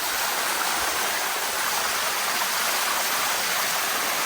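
Waterfall water running over rock, a steady rushing hiss close at hand.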